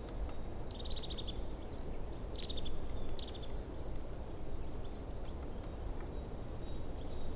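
Forest stream running steadily, with small birds calling over it in short, high, falling chirps and trills, repeated several times and busiest two to three seconds in.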